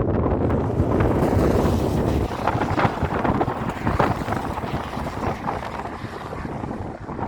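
Wind buffeting the microphone: an uneven rumbling rush that swells and drops in gusts.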